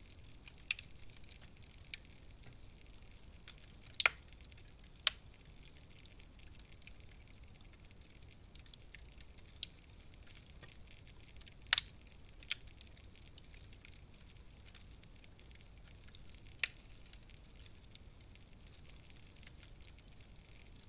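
Wood fire burning in a fireplace: a soft steady hiss with scattered sharp crackles and pops, about a dozen over twenty seconds, the strongest around four, five and twelve seconds in.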